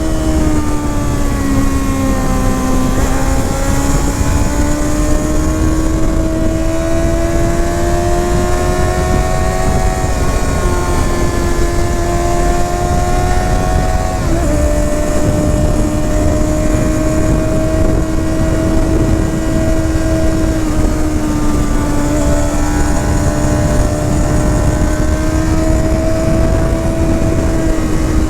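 Honda CBR 650R's inline-four engine and exhaust pulling at steady revs while riding. The pitch dips about two to three seconds in and climbs again, then drops suddenly about ten and fourteen seconds in. Wind rushes over the microphone underneath.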